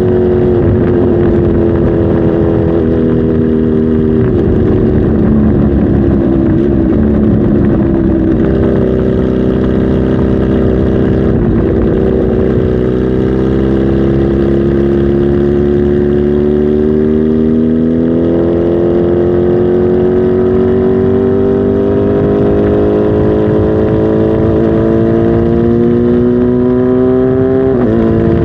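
Kawasaki Z H2 SE's supercharged inline-four engine running loud. Its pitch dips a few times in the first several seconds, then climbs slowly and steadily for about fifteen seconds before dropping sharply near the end.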